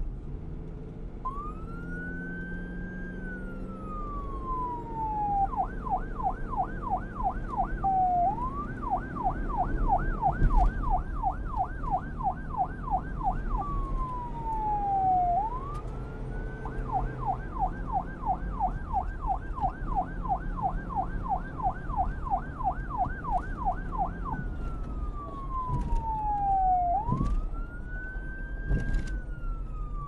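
Police siren alternating between a slow rising-and-falling wail and a fast yelp of about four sweeps a second, switching back and forth several times over a low rumble.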